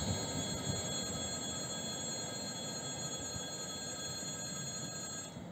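Electric train rumbling away into the distance, fading steadily, with a high ringing of several steady tones over it that cuts off abruptly near the end.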